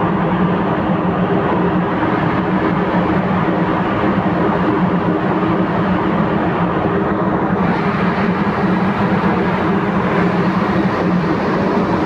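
Steady drone of a car ferry's engines with a constant low hum. A hiss grows brighter and higher about seven and a half seconds in.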